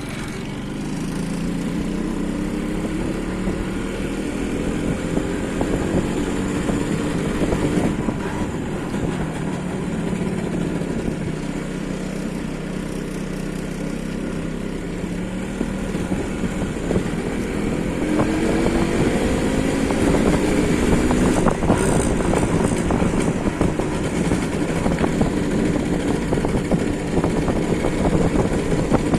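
MZ ETZ 150 motorcycle's single-cylinder two-stroke engine running, its pitch climbing in the first few seconds, holding steady, then climbing again about two-thirds of the way through.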